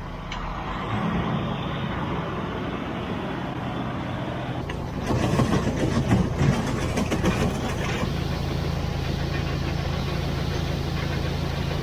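Vehicle engine running steadily, getting louder and rougher for a few seconds in the middle before settling back to a steady drone.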